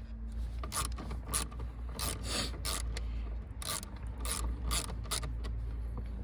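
Ratchet clicking in a run of uneven clicks, a few a second, as it unscrews one of the screws holding the steering-column shroud.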